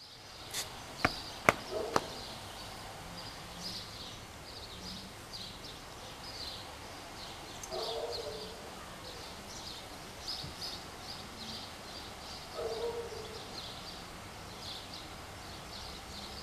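Small birds chirping over and over in the background. A few sharp clicks in the first two seconds, and two short lower sounds, one around the middle and one about three quarters through.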